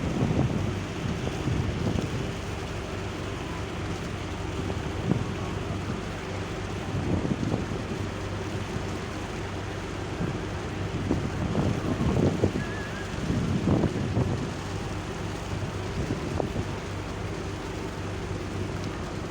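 A ship's engine running with a steady low hum while the vessel comes in to berth. Wind gusts buffet the microphone at irregular moments, most strongly about two-thirds of the way through.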